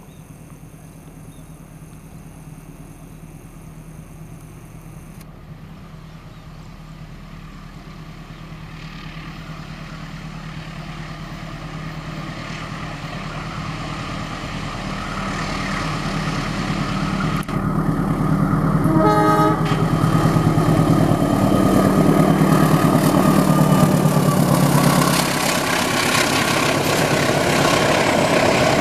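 KAI diesel-electric locomotive hauling a cement freight train, approaching and passing, its engine drone and the rumble of the wheels on the rails growing steadily louder. A brief horn toot sounds about two-thirds of the way through, then the loaded wagons rumble past.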